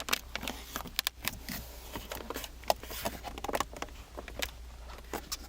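Irregular light clicks and rattles of plastic interior trim around the gear-shift console being pressed and worked by hand, over a steady low hum.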